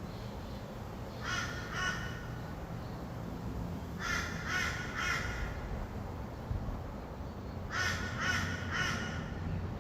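A bird giving harsh calls in three short series of two to four notes each, over a steady low hum of distant traffic.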